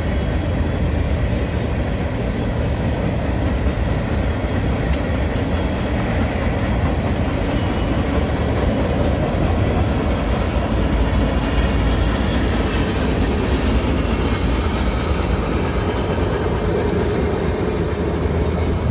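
Cars of a Union Pacific mixed freight (manifest) train rolling past: covered hoppers, a tank car and empty centerbeam flatcars, giving a steady, even rumble and rattle of steel wheels on rail.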